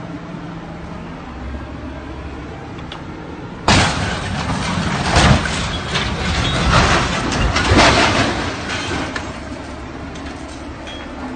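Steady vehicle running noise, then about four seconds in a sudden loud crash, followed by about five seconds of repeated bangs and clattering before it drops back to the running noise.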